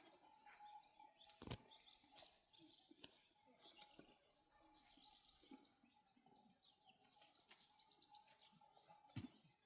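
Faint chirping of small birds: many short, high calls, over a faint steady tone. There are two soft knocks, one about a second and a half in and one near the end.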